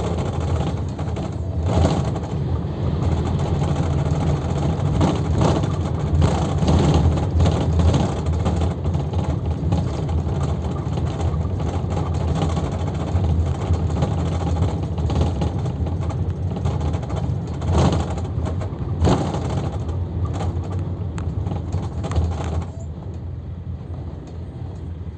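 Luidor 2250DS bus driving between stops, heard from inside the cabin: a steady engine drone and road noise with scattered rattles and knocks. Near the end the hiss of road noise drops away and the ride goes quieter.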